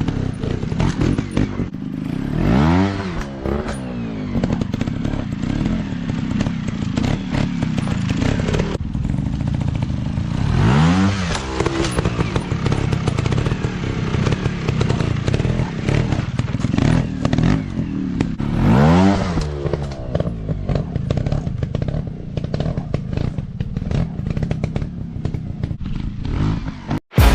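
Dirt bike engine running, revved up and back down three times about eight seconds apart.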